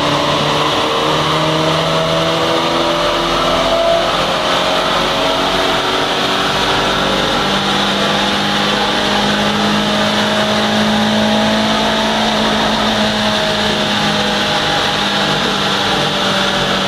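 Fiat Grande Punto's 1.2-litre eight-valve four-cylinder engine pulling under load on a chassis dynamometer during a power run, its note climbing slowly from about 2,200 to nearly 6,000 rpm, over a steady hiss.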